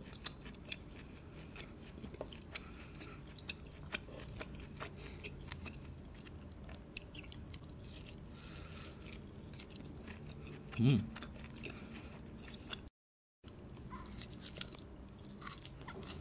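Close-up chewing of slices of roast lamb leg, with many small wet mouth clicks. About two-thirds of the way through there is a short hum from the eater, and the sound cuts out completely for half a second soon after.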